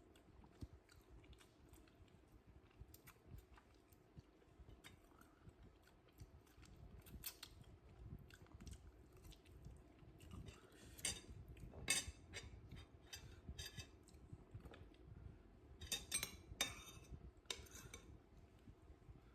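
Quiet eating sounds: cutlery clinking and scraping on a plate in scattered light taps, with louder clinks about halfway through and again near the end.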